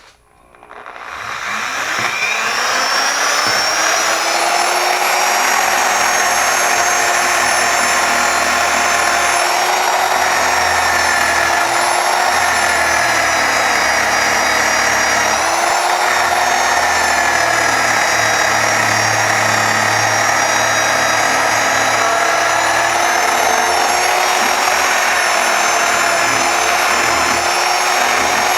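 Handheld power tool motor spinning up over the first few seconds, then running steadily, its pitch sagging briefly now and then as it is worked against the wrench's metal to strip the rust.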